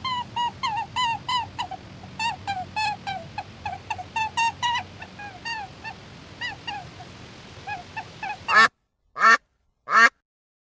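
A bird calling in a quick run of short pitched chirps, about three a second. Near the end three loud Canada goose honks follow one another.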